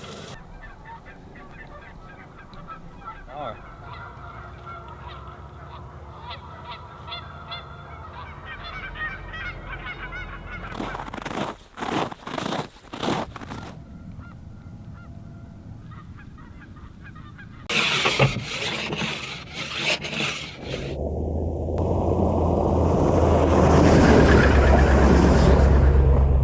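Geese honking over a steady low hum, broken twice by clusters of loud sudden bursts of noise. About three-quarters of the way through, a truck's engine and tyre noise swells in and stays loud to the end.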